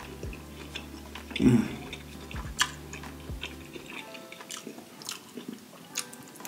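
Close-miked chewing of butter-dipped lobster tail meat, with wet mouth clicks and lip smacks, the loudest about a second and a half in. Soft background music plays underneath.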